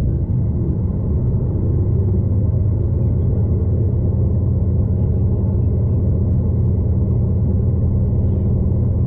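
Steady low rumble of a V/Line passenger train running along the line, heard from inside the carriage.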